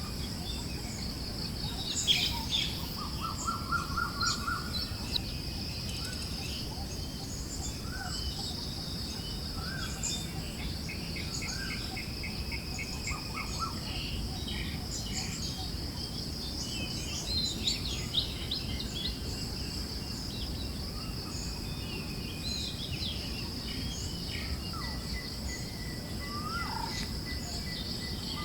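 Forest birds chirping and trilling in scattered short calls over a steady high-pitched drone and a soft, constant rush of wind.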